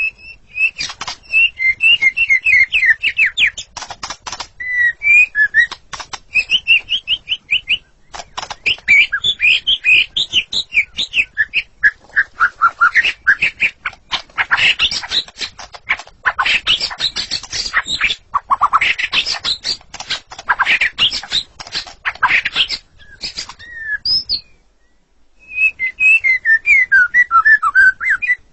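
White-rumped shama (murai batu) singing: fast runs of clear whistled notes mixed with sharp clicking notes, with a short break near the end.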